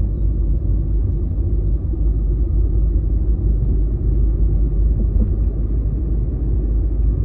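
Steady low rumble of a car driving, heard from inside the cabin: engine and road noise at a constant speed.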